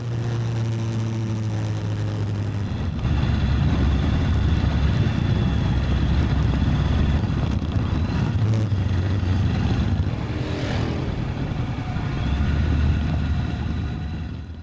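Motorbike engine running while riding, a steady low engine note under a dense low rumble that grows about three seconds in.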